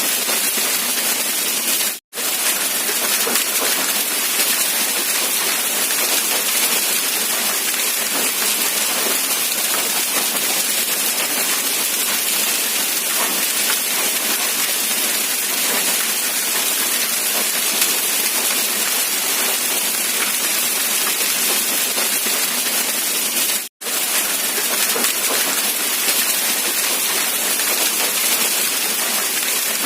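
Steady rain falling, an even dense hiss with no low rumble. It cuts out to silence for a split second twice, about two seconds in and near the three-quarter mark.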